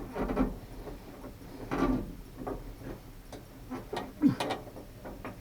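Irregular clicks, taps and short rattles of small metal parts being handled as a replacement pickup-truck door handle and its linkage are worked into place, with a sharper knock about four seconds in.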